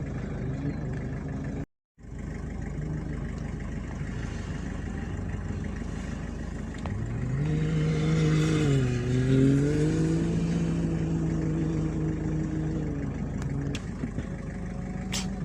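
Off-road rally vehicle's engine running steadily, cut off briefly about two seconds in, its pitch dipping and then rising again around the middle as it slows and accelerates.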